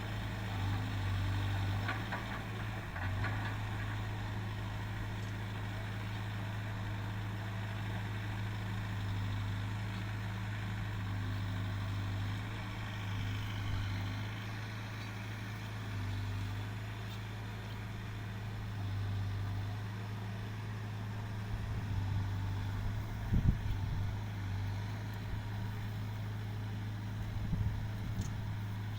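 Case 851EX backhoe loader's diesel engine running steadily, with a few short knocks, the loudest about two-thirds of the way through.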